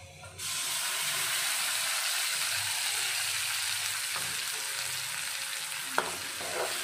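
Tomato-chilli paste sizzling in hot oil and garlic in a kadhai, the hiss starting suddenly about half a second in as the paste goes in. Near the end a metal spoon clinks and scrapes in the pan as it is stirred.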